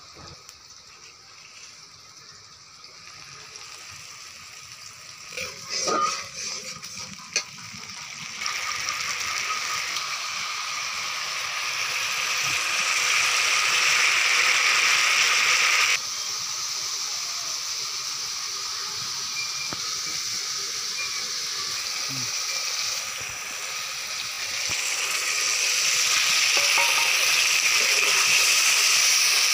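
Onion and spice masala frying in hot oil in a pan and being stirred with a spatula: a few knocks about six seconds in, then a loud steady sizzle starts and grows, drops suddenly partway through and rises again near the end.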